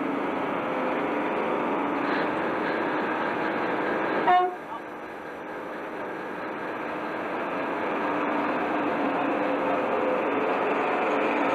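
Diesel locomotive running, with a short horn toot about four seconds in.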